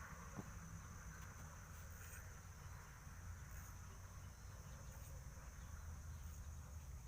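Insects, crickets by their sound, chirring in a steady high-pitched drone, with a low rumble underneath.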